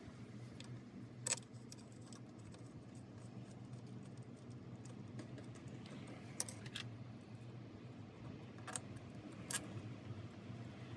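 Five scattered sharp clicks and light metallic taps, from small parts and hand tools being handled during scooter clutch work, over a faint steady low hum.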